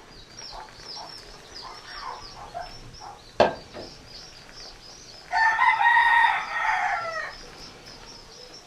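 A rooster crows once, a single long call of about two seconds starting a little past the middle, after a few soft clucks. A sharp click comes a couple of seconds before the crow, and faint rapid high chirping runs underneath.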